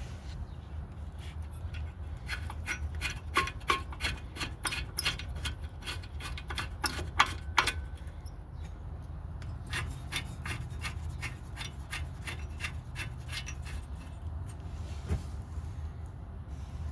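Hand ratchet clicking in two long runs of about four clicks a second, as the brake caliper bracket bolts are run in snug. A steady low hum underneath.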